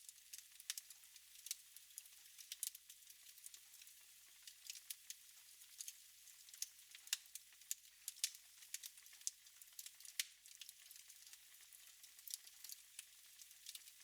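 Wood fire burning in a fireplace: faint hiss with frequent irregular sharp crackles and pops.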